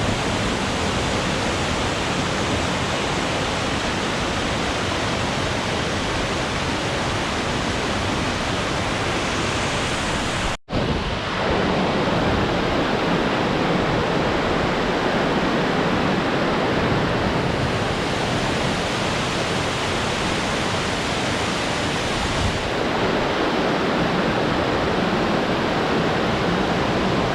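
Waterfall rushing with a loud, steady, even roar of falling water. About eleven seconds in, the sound drops out for an instant at a cut, then carries on unchanged.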